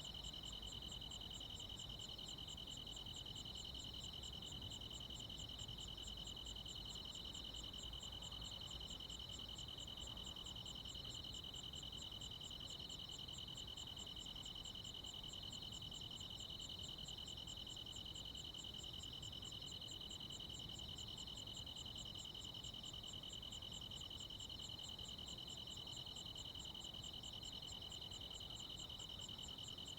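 Crickets and other insects chirping on a summer night in the countryside, a steady chorus of overlapping high trills with a faster pulsing trill above them, over a faint low background hum.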